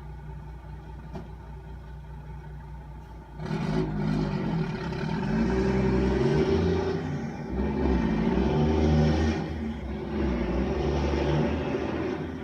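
Garbage truck engine idling low, then revving up sharply about three and a half seconds in and staying loud, its pitch rising and falling.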